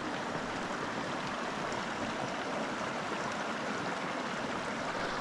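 A small mountain creek running, a steady even rush of water.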